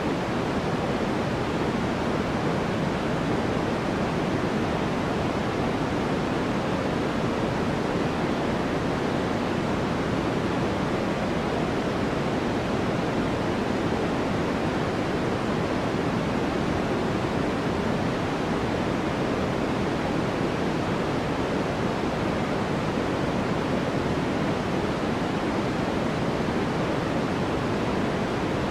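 Steady white-noise track: an even, deep rushing hiss, weighted toward the low end, that never changes.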